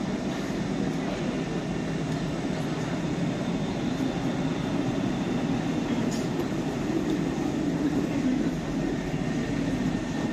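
Red double-deck regional coaches of a DB Regio train rolling steadily past along the platform, a continuous low rumble of wheels on rail that swells slightly about eight seconds in.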